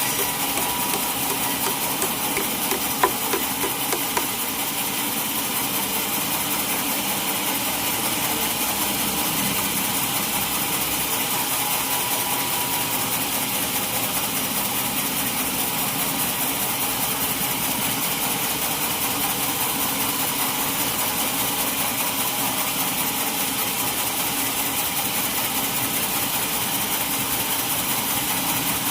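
Sawmill machinery running steadily with a constant mechanical hum and hiss, with one short sharp knock about three seconds in.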